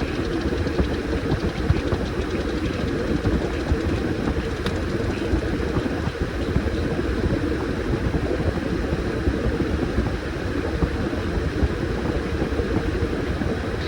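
Washing machine running with a load of towels, the drum turning in a steady rumble with a few faint ticks.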